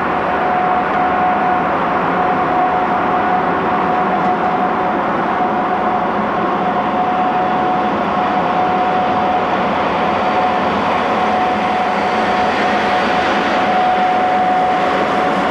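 Passenger train hauled by two electric locomotives running past: a steady, loud wash of wheel and running noise with a constant high whine held throughout.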